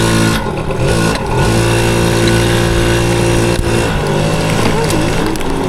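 Yamaha PW80 dirt bike's small two-stroke single-cylinder engine running while riding along, its pitch stepping up and down a few times with the throttle. A sharp knock about three and a half seconds in.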